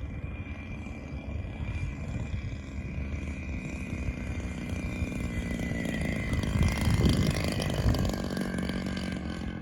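Radio-controlled model airplane's motor and propeller running with a steady whine, growing louder to a peak about seven seconds in as it comes close, over a low rumble.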